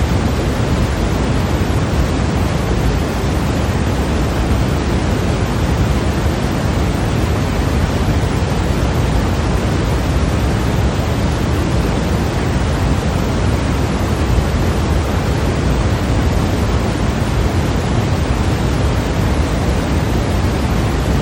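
Steady synthetic white noise played as a sleep and masking sound: one constant, even rush of noise, weightier in the low end, that never changes.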